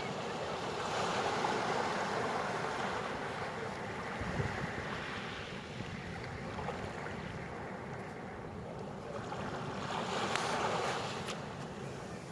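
Pacific surf washing over a beach of sea-glass pebbles, with two swells of rushing water: one in the first few seconds and another about ten seconds in. Wind rumbles on the microphone throughout.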